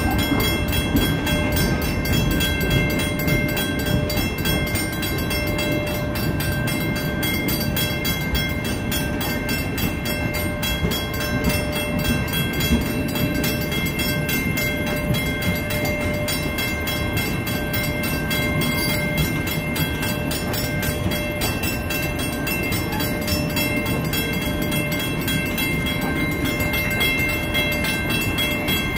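Circus train passenger cars rolling steadily past over a grade crossing: a continuous rumble of steel wheels on rail. Steady high ringing tones run over it, which fit the crossing's warning bell.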